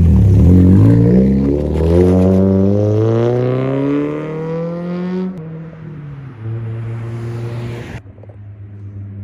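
Car engine revving: its pitch dips, then climbs steadily for about five seconds and cuts off abruptly. A steady engine note follows for a couple of seconds and then stops abruptly.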